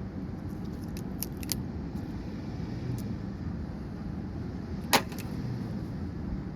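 A few light clicks and one sharp knock about five seconds in, from handling the broken microwave's parts, over a steady low rumble.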